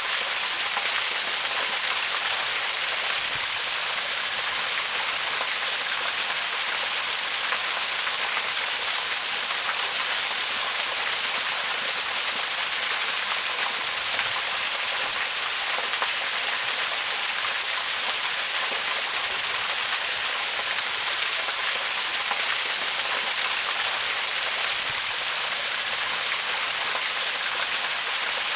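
Waterfall: water falling and splashing in a steady, even hiss, strongest in the high range, without change or pause.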